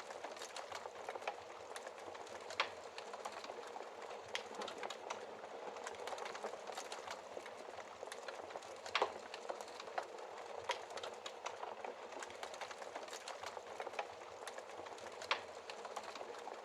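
Wood fire burning in a fireplace, crackling steadily with many small snaps and a few louder pops, the loudest about nine seconds in.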